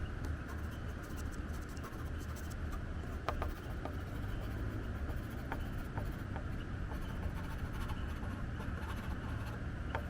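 Wind rumbling steadily on the microphone, with the light scratching and scattered ticks of a watercolor pencil working on synthetic paper.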